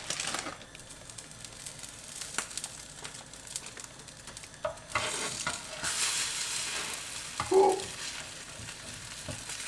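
Cheese omelette sizzling in a frying pan, with a few light clicks of a utensil against the pan; the sizzle grows louder about halfway through, and a louder clatter comes near the end.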